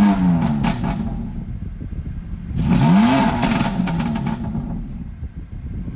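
A car engine running, revved twice: one blip right at the start and another about three seconds in, each rising then falling in pitch.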